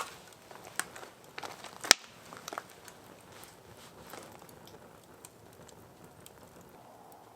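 Wood fire crackling in a steel fire pit: a few sharp pops and snaps in the first couple of seconds, the loudest about two seconds in, then fainter scattered ticks.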